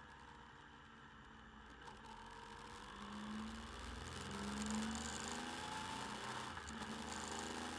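Motorcycle engine, picked up by the bike-mounted camera's microphone, accelerating. Its pitch rises several times and it grows louder from about three seconds in.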